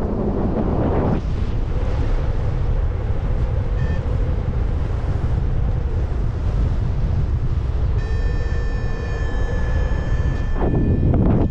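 Strong wind buffeting the microphone in flight, with a heavy, steady rumble and stronger gusts near the start and near the end. A short electronic beep comes about 4 s in. A steady electronic tone comes in about 8 s in and holds for about two and a half seconds; it is most likely from the paraglider's flight instrument.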